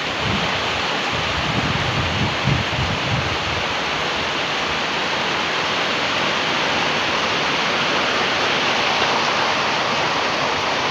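Heavy rain falling steadily, an even hiss, with wind buffeting the microphone in the first few seconds.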